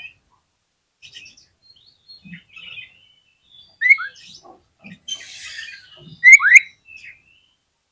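Oriental magpie-robin singing a varied run of short phrases: sharp rising whistles about four seconds in and a loud pair just after six seconds, with a harsh rasping note between them.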